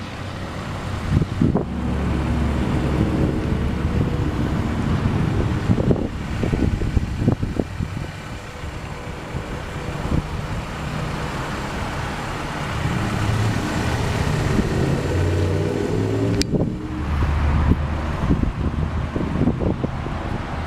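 Honda Prelude's 2.2-litre four-cylinder engine idling steadily, with scattered light knocks and one sharp click about three-quarters of the way through.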